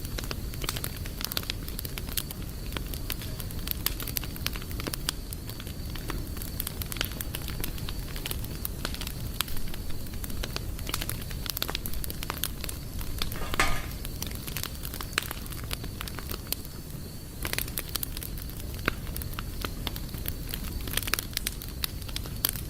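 Wood campfire burning, with dense, irregular crackles and pops over a low steady rumble of the flames. A brief whistling note sounds about halfway through.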